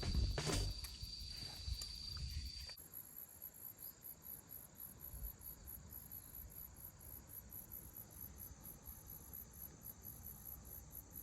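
Night insects chirping in a steady, rapidly pulsing high trill. For the first few seconds a louder low-pitched sound with a steady high tone runs over them, then cuts off suddenly.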